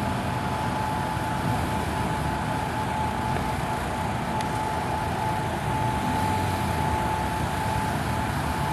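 Steady low rumble of car engines idling, with a thin constant whine held throughout.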